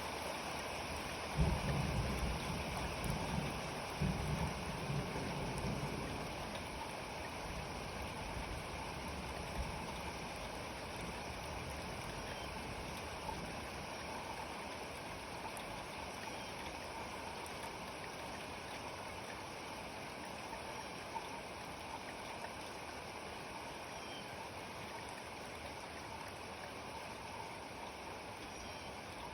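Steady rain falling, with a low rumble of thunder that starts suddenly about a second in and fades away over the next few seconds.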